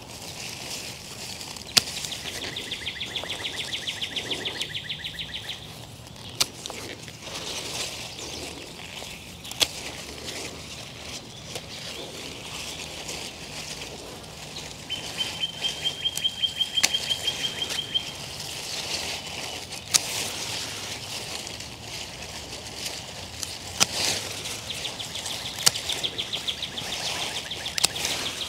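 A songbird singing a fast, dry trill three times, each a few seconds long, over outdoor ambience. About half a dozen sharp snips of hand pruners cutting salvia stems cut through now and then, louder than the birdsong.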